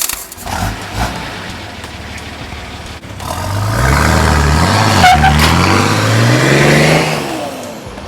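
A car engine accelerating hard: its pitch climbs, drops sharply at a gear change about halfway through, climbs again, then eases off near the end.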